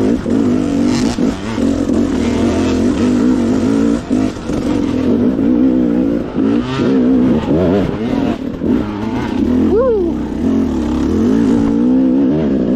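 Two-stroke dirt bike engine being ridden, its revs rising and falling continuously with the throttle. About ten seconds in it gives one quick, sharp rev.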